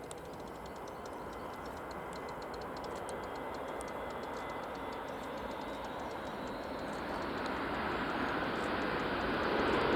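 An Airbus A400M's four turboprop engines approaching, a steady rushing drone that grows gradually louder, with faint rapid ticking over it.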